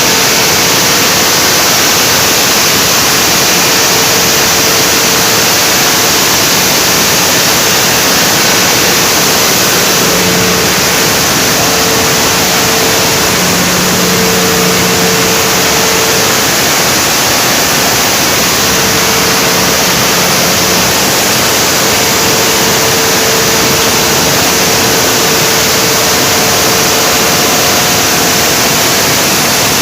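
Generator running steadily under a load test: a loud, even rush of noise with a faint steady hum.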